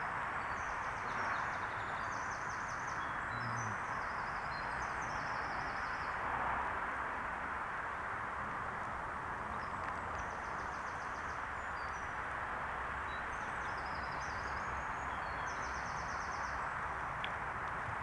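Small birds singing in short, high trilled phrases in two spells, over a steady rushing noise from riding along on a bike.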